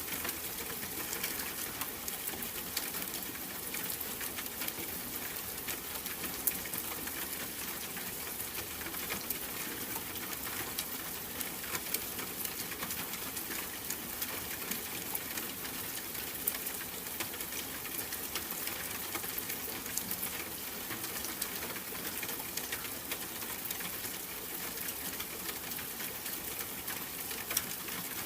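Steady rain: an even hiss with many small, sharp drop ticks throughout.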